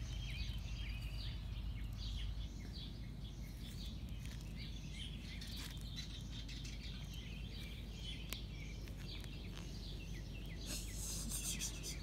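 Birds chirping repeatedly in the background over a steady outdoor hum, with a brief rustle near the end.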